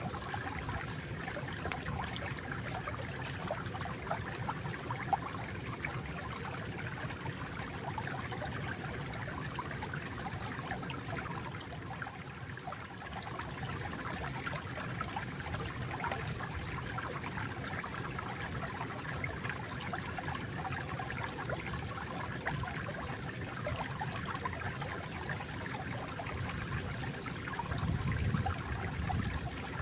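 Flowing water trickling steadily, with a slight lull about twelve seconds in and a louder low surge near the end.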